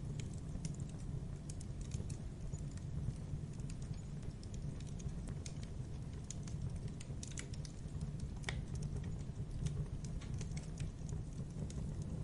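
Campfire burning: a steady low rumble of flames with irregular crackles and pops of burning wood, one sharper pop about eight and a half seconds in.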